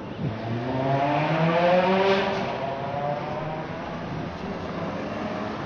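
Ferrari F430 Spyder's 4.3-litre V8 accelerating, its engine note rising steadily in pitch for about two seconds to its loudest, then holding and fading as the car pulls away.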